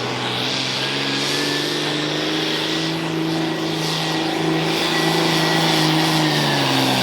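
Turbocharged diesel pulling tractor running hard at full throttle down the track, its engine pitch climbing over the first couple of seconds and then holding, with a thin high turbo whistle over it as the boost builds. The revs begin to drop right at the end.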